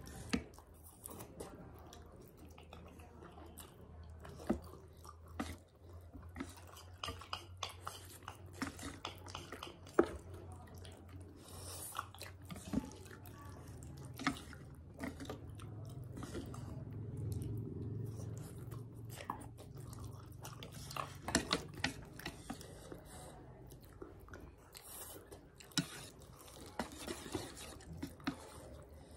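Close-up eating of noodles: chewing, with scattered light clicks and taps of chopsticks against bowls, over a low steady hum.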